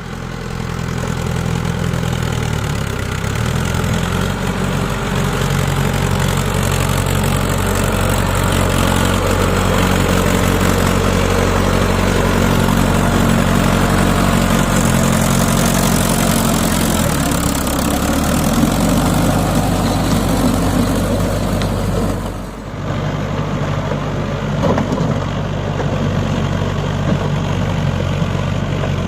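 Mahindra 555 tractor's diesel engine running steadily under a steady drone, its pitch shifting slightly up and down; the sound briefly drops about two-thirds of the way through, then runs on.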